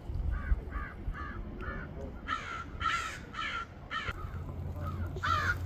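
Birds calling: a run of short harsh calls, four softer ones first, then louder ones in two clusters, the loudest near the end.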